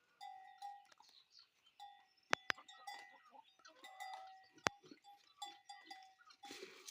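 Livestock bells clanking irregularly, short metallic rings overlapping one another, with a few sharp clicks.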